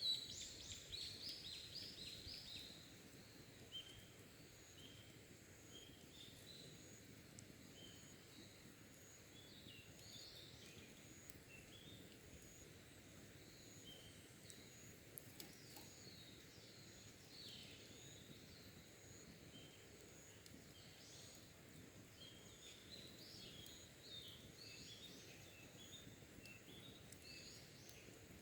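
Faint wild birdsong: a quick run of loud chirps right at the start, then scattered short calls and trills over a soft steady hiss.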